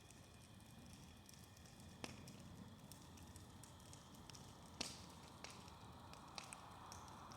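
Bonfire burning faintly, with scattered sharp pops and cracks over a low rumble; the loudest pop comes about five seconds in.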